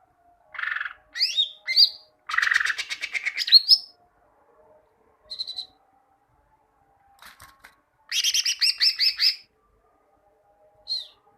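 Green leafbird (cucak ijo) song: bursts of sharp chirps, rising whistled notes and fast rattling trills separated by short pauses. A faint steady hum sits underneath.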